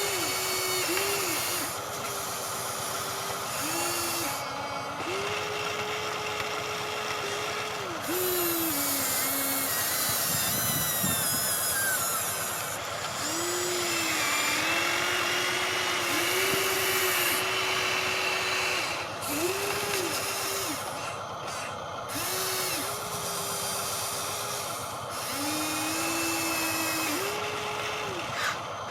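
Small electric motors of a radio-controlled model construction machine whining in short spurts, starting and stopping many times, the pitch rising as each spurt starts and dropping as it stops.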